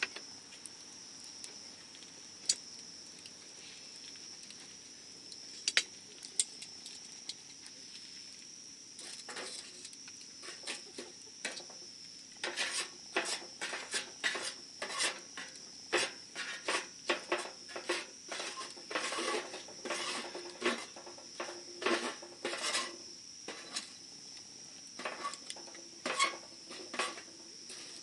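Campfire crackling and popping: scattered sharp pops at first, then a busy run of crackles from about nine seconds in, over a steady high-pitched tone.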